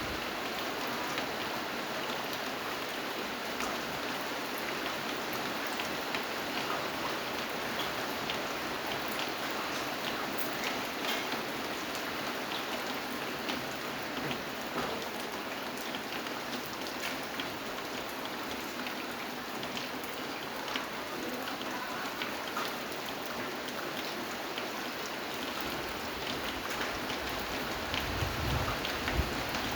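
Steady rain falling, with many individual drops ticking on a surface over an even hiss. A low rumble of thunder comes in near the end.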